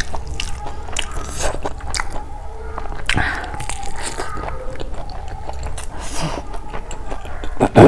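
Close-miked mouth sounds of someone chewing a big handful of lemon rice: wet smacking and many small sticky clicks, with the hand squishing into the rice pile. A much louder burst comes right at the end.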